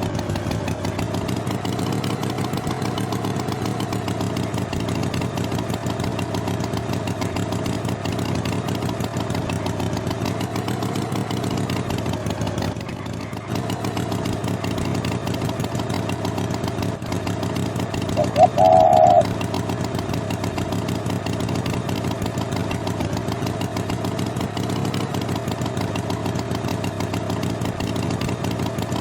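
Cartoon tractor engine running steadily, its pitch wavering slightly and dipping briefly about halfway through. A short, loud high tone cuts in once, about two-thirds of the way through.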